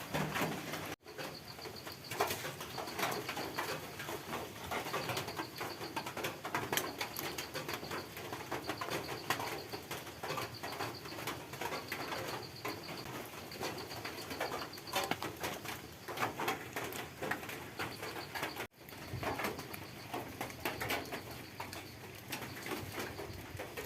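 Forest birds calling, one repeating a short high note in runs, over a dense patter of small clicks and taps. The sound drops out for an instant twice, about a second in and near the end.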